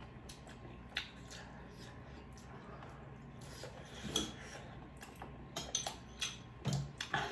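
Cutlery clicking and clinking against a plate during a meal. There are a few separate sharp taps, then a quick run of several near the end.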